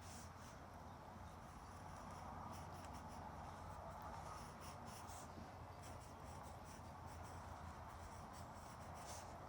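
Pen scratching across paper in short, irregular sketching strokes, over a faint steady low hum in the background.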